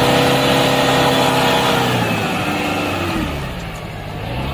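Off-road 4x4 vehicle's engine running hard at high revs, held steady, then the revs fall away about three seconds in.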